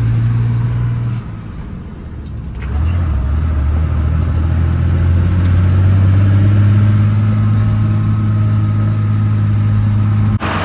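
The 5.9 Cummins diesel of a 1994 Ford F700 dump truck running while driving. About a second in, the engine note drops away for a second or so, then picks up again and pulls steadily. It cuts off suddenly near the end.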